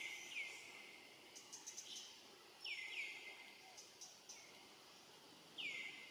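Faint bird calls: short, quick downward-sliding notes, two pairs and then a single near the end, over a steady background hiss. A few quick ticks come between the first two pairs.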